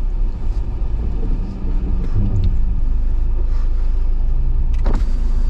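Jeep Wrangler JL crawling over a rocky off-road trail: a steady low engine and drivetrain rumble, with one sharp knock about five seconds in.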